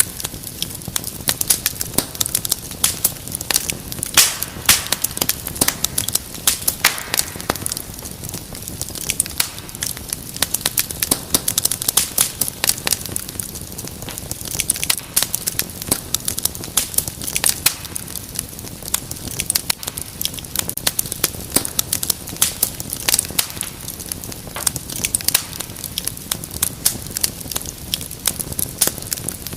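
Wood fire crackling: dense, irregular pops and snaps over a soft steady hiss of burning logs.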